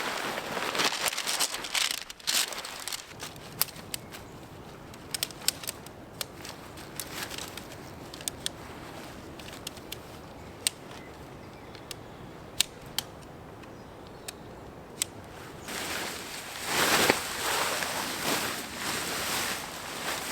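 Irregular sharp crackles and pops, with stretches of rustling in the first couple of seconds and again in the last four seconds.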